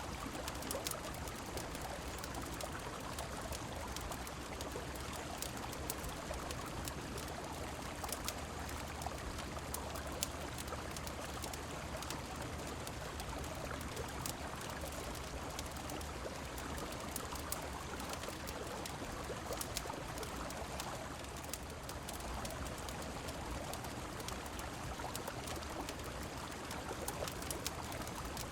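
Steady rushing of river water with falling rain, mixed with frequent short sharp crackles and pops of a wood fire.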